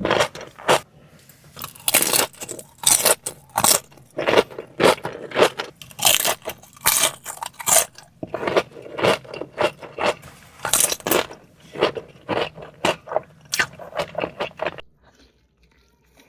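Close-miked crunchy chewing and biting of food, many sharp crackly crunches a second, stopping abruptly near the end.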